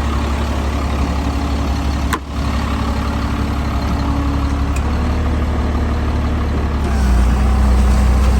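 Caterpillar diesel engine of a 2004 GMC truck running steadily. There is a sharp click about two seconds in, and the engine note drops lower and grows slightly louder about seven seconds in.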